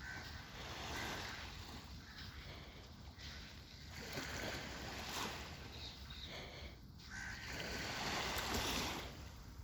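Birds calling, short cries over a rushing noise that swells and fades every second or two.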